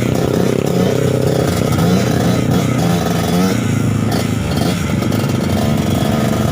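Trail motorcycle engine running loudly, its pitch rising and falling in repeated short revs.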